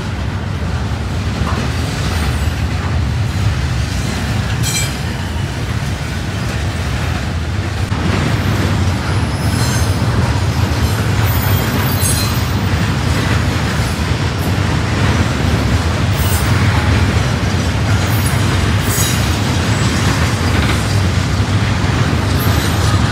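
Double-stack container freight train rolling past at close range: a steady, loud low rumble of wheels and cars on the rails, with a brief high wheel squeal near the end.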